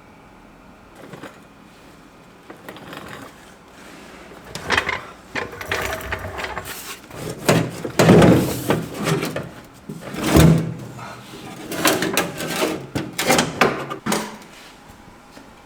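Irregular knocks, scrapes and clatter of hand work on parts, loudest about eight and ten and a half seconds in, then dying away near the end.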